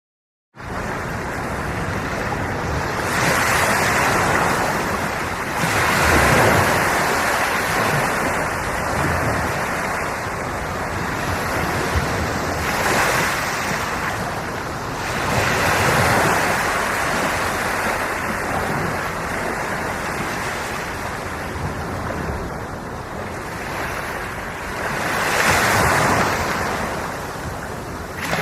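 Ocean surf: waves breaking and washing up the shore as a steady rush that swells louder every few seconds as each wave comes in. It starts suddenly after a brief silence at the very beginning.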